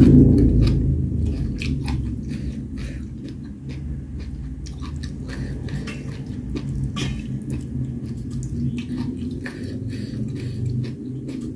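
A person chewing and biting food close to the microphone: many small, crisp clicks over a steady low rumble, loudest in the first few seconds.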